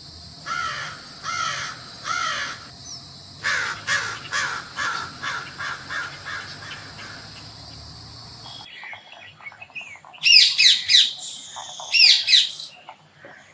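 Crow cawing: three caws, then a quicker run of about eight, over a steady high hiss. After a sudden change in recording, a bird gives loud, high chirping calls in two bursts.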